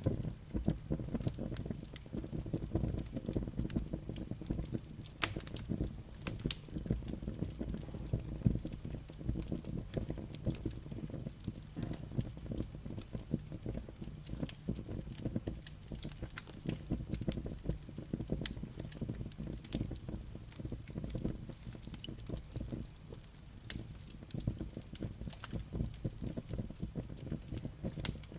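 Wood fire burning in a fireplace: a steady low rumble of flames with frequent irregular crackles and sharp pops from the burning logs and embers.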